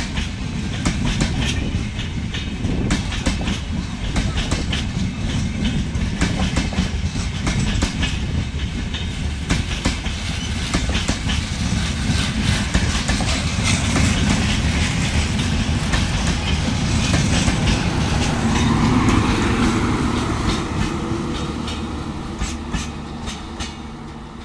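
Passenger express coaches rolling past, their wheels clattering over the track in a rapid run of clicks over a heavy rumble. In the last few seconds the end of the train draws away and the sound fades.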